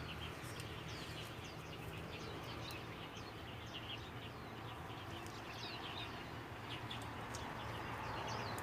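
Birds calling outdoors: many short, quick chirps, one after another, faint, over a steady low hum.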